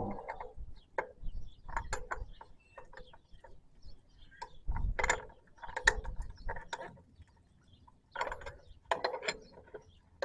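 Hand tools clicking and clinking on metal in a string of irregular short clicks and rattles, as a leaking fuel-line fitting is taken apart and refitted.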